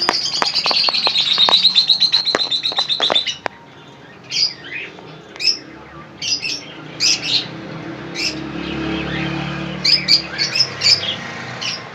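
Small cage birds chirping. A fast, high trill drops slightly in pitch for about three seconds, then short high chirps follow one another irregularly.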